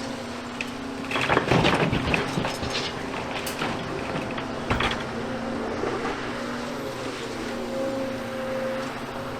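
Diesel excavator engine running steadily, with a loud clattering crash of demolition rubble about a second in and a single sharp knock near the middle.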